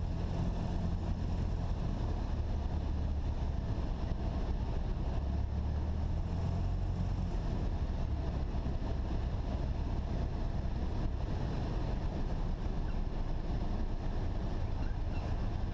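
Cessna 172 SP's four-cylinder Lycoming engine and propeller droning steadily in the cabin during the landing, a low hum that eases slightly about halfway through.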